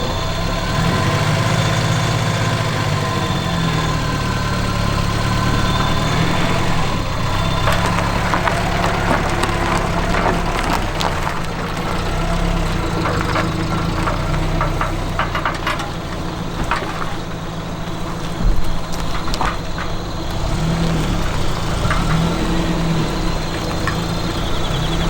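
Engine running at idle, its low note rising and falling unevenly, with scattered sharp clicks through the middle.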